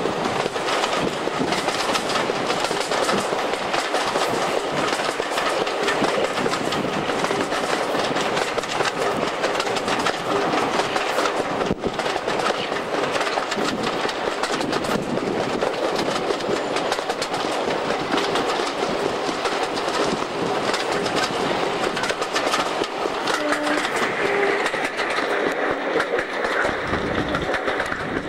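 Passenger coach of a diesel-hauled train running at speed, its wheels clattering steadily on the track, heard through an open carriage window.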